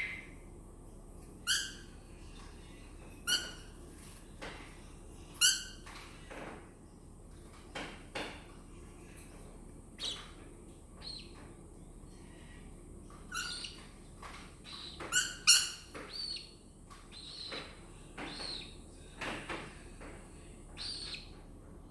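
Pet cockatiel giving short, separate chirps every second or two, the loudest a quick pair near the middle.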